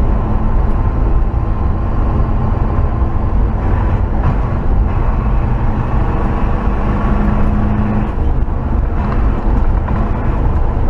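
1968 Chevrolet C20 pickup being driven, its engine and road noise making a steady low rumble; the engine runs on a new intake that replaced its old two-barrel carburettor.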